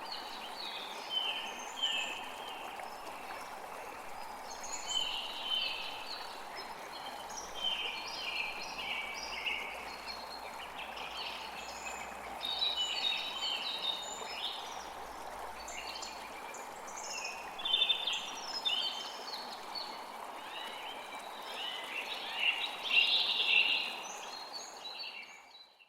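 Steady rush of a small flowing creek, with songbirds singing in repeated short chirping phrases over it; the sound fades out near the end.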